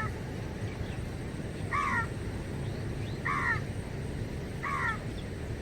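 A bird calling again and again, about one short falling call every second and a half, over a steady low background noise.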